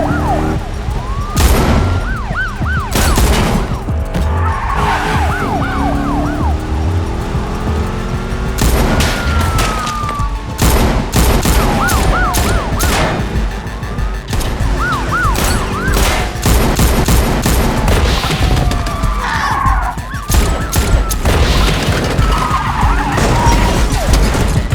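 Action-film car-chase sound mix: car engines rumbling with tyres squealing, siren wails, and many sharp bangs scattered throughout, over a music score.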